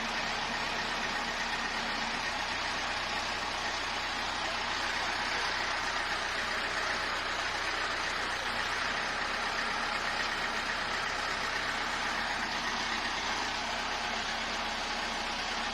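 Tractor engine running steadily while the tractor-mounted brick crane works.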